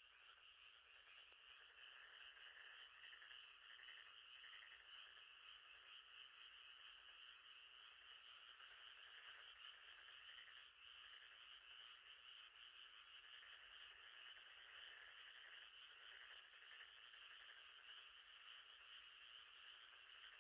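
Faint, steady night chorus of frogs, a dense unbroken calling that holds at one level.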